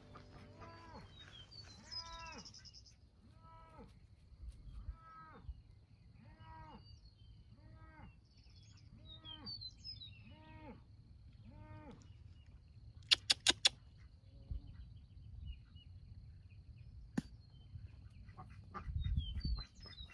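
A farm animal calling over and over, about one call a second, for most of the stretch. Then a quick run of four sharp clicks.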